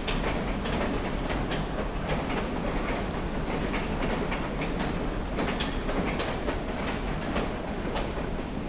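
Freight cars rolling across a steel trestle bridge: a continuous rumble with the wheels clacking over the rail joints, irregular sharp knocks coming several times a second.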